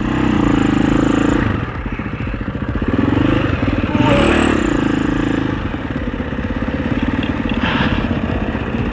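Husaberg FE 650 single-cylinder four-stroke dirt bike engine running under a varying throttle, its note dropping and rising several times while riding over trail jumps, with a short rattle near the end.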